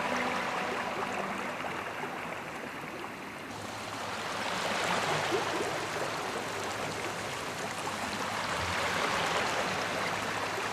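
River water flowing in a steady rush, with a higher hiss joining about three and a half seconds in. Background music fades out in the first second or so and cuts back in at the very end.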